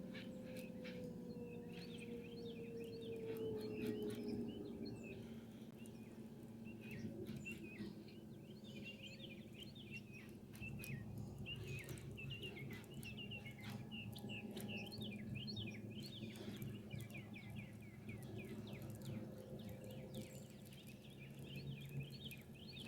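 Songbirds chirping and twittering, many short quick notes overlapping throughout, over a low steady hum with scattered small clicks.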